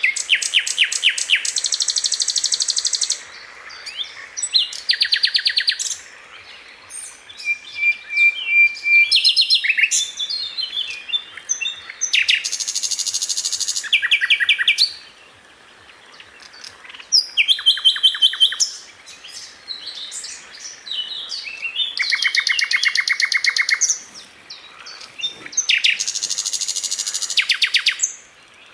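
Sikatan londo flycatcher singing: loud, rapid trills of fast-repeated notes in runs of one to three seconds, broken by short pauses and a few thin single whistles.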